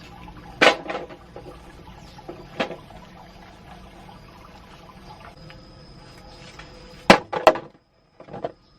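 Water splashing and pouring, broken by several sharp knocks and clatters.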